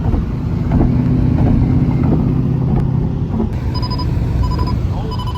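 Car engine running with a steady low drone. About two-thirds of the way in, a repeating electronic warning beep starts, roughly two short beeps a second.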